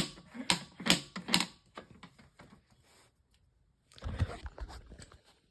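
Plastic carry handle of a 20-inch Haier box fan flipped back and forth, clacking four times in about a second and a half, then fainter rattles. The fan is handled with a low bump about four seconds in.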